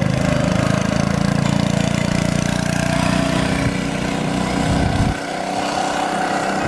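Minibike's small single-cylinder engine running, its low sound dropping away suddenly about five seconds in.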